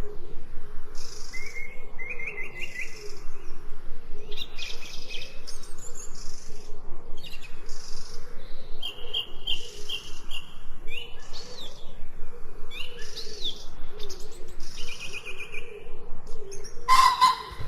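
Several birds singing together, with repeated short chirps, whistled notes and quick trills. A sharp, louder sound breaks in about a second before the end.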